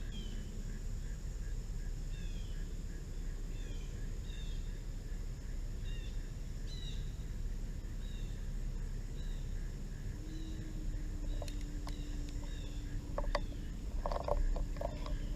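Outdoor ambience over a steady hiss, with a bird repeatedly giving short falling chirps, roughly one a second. A steady low hum joins about ten seconds in, and a few clicks and knocks come near the end.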